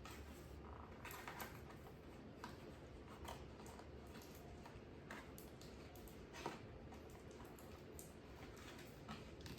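Faint, scattered clicks and taps of a toy package being worked open by hand.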